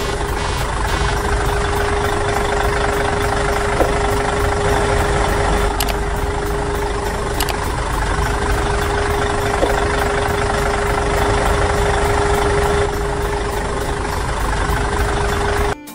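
Recorded tractor engine sound running steadily at idle, with a constant hum under the engine noise. It cuts off suddenly just before the end.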